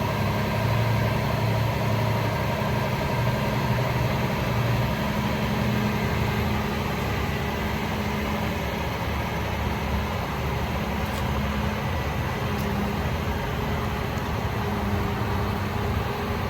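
Cummins L9 turbo diesel engine of a Freightliner M2 truck idling steadily.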